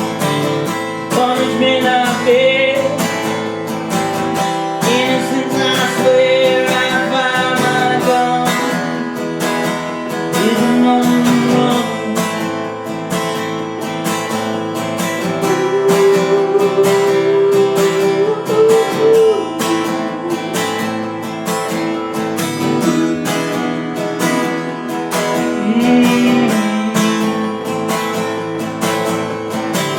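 Acoustic guitar strummed in a steady rhythm, with a man's voice singing a melody over it at intervals.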